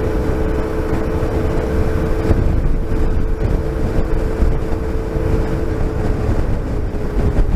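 Motorcycle engine running steadily while riding, with a dense low rumble of engine, road and wind and a steady hum over it.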